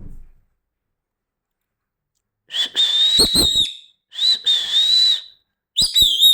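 Pet parrot giving three loud, shrill whistling screeches, each about a second long, the first about two and a half seconds in.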